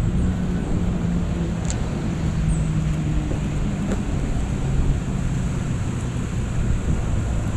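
2017 Dodge Challenger SXT's 3.6-litre V6 running under way, heard from inside the cabin as a steady low hum over road and wind noise.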